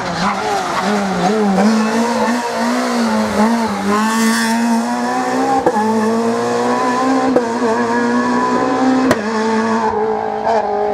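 Rally car engine running hard at high revs, its pitch dipping and rising with throttle and gear changes, with a few sharp cracks along the way.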